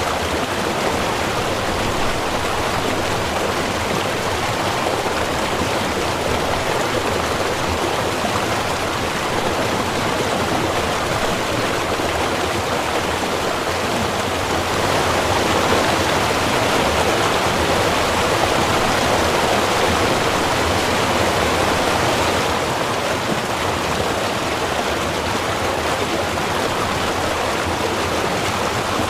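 Small river running: a steady rush of flowing water, a little louder for several seconds in the middle.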